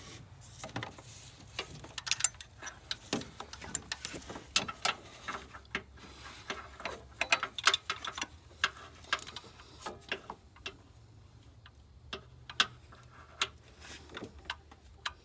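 Ratcheting wrench and metal tools clicking and clinking as they are worked against the belt tensioner in an engine bay: many irregular sharp clicks, thinning out in the last few seconds, over a low steady hum.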